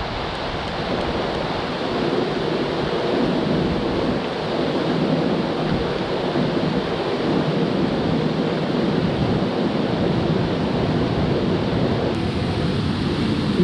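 Steady, loud rush of flowing water, with no distinct splashes or breaks.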